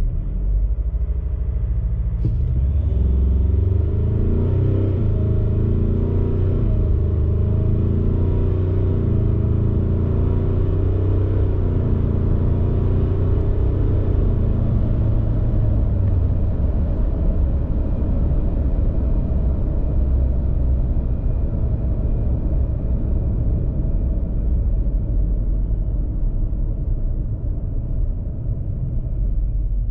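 Ford Ranger Raptor's 2.0-litre twin-turbo diesel four-cylinder accelerating hard. Its pitch climbs and drops back about five times as the automatic shifts up through the gears. About halfway through it settles into a steady low drone.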